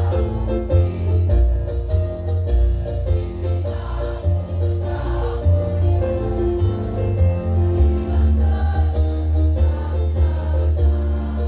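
Women's choir singing to a loud instrumental accompaniment with a heavy bass line.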